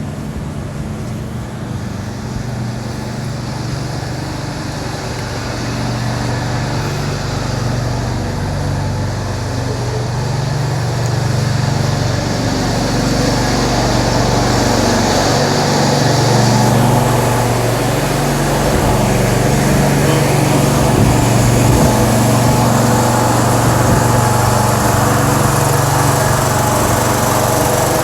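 Small garden tractor engine running steadily, getting gradually louder.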